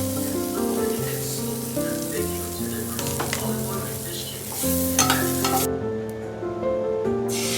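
Light background music over food sizzling as it fries in a pan, with a few clicks of a utensil. The sizzle cuts off suddenly past the halfway point, and a similar hiss starts again just before the end.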